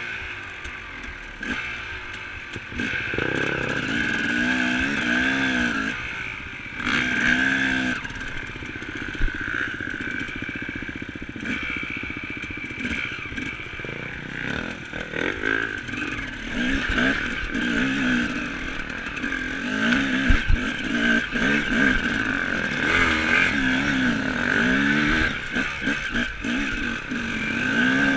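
Enduro dirt bike engine running as it rides down a rough forest trail, its pitch rising and falling over and over in short throttle blips.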